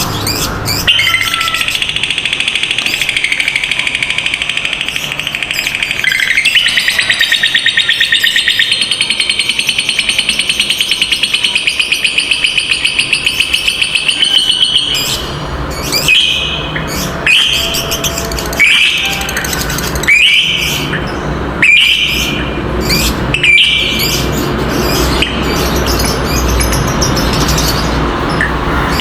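Lovebird chattering in one long, rapid trill (the 'ngekek panjang' call) that lasts about thirteen seconds. It then breaks into about seven short trilled bursts, one every second and a half or so.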